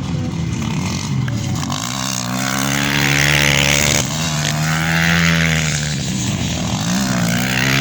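450cc motocross bike engine revving hard, its pitch climbing about two seconds in and holding high, then dropping briefly and climbing again near the end.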